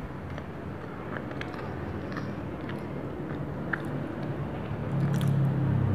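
Close-up eating of a soft white-bread peanut butter and jelly sandwich: biting and chewing with scattered small mouth clicks. A low hum swells up in the second half and is the loudest sound near the end.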